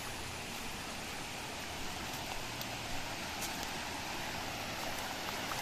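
Steady, even hiss of rain falling, with a few faint drop ticks, growing slightly louder near the end.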